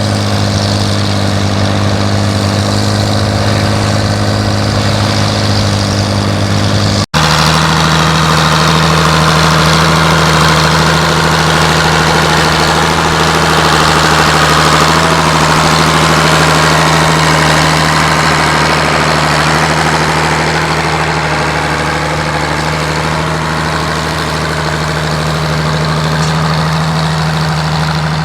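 Antique farm tractor engines running steadily while pulling plows. About seven seconds in there is a sudden break, and a different tractor's engine follows at another steady pitch.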